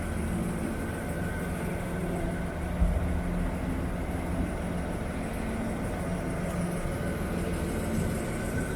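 1953 Dodge truck's flathead inline-six engine idling steadily, with a brief low thump about three seconds in.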